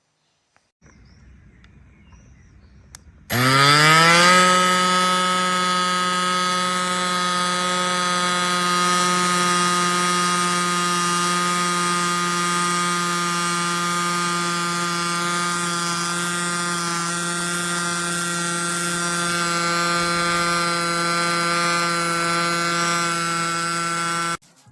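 A small electric bike pump's motor-driven compressor starts about three seconds in and spins up quickly, rising slightly in pitch. It then runs at a steady pitch for about twenty seconds and stops just before the end.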